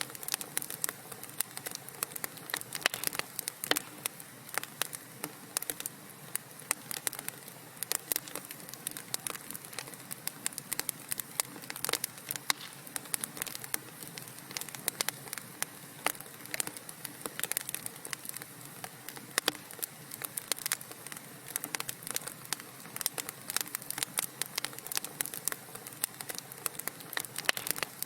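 Wood fire in a fireplace crackling, with many irregular sharp pops and snaps over a soft steady hiss of burning.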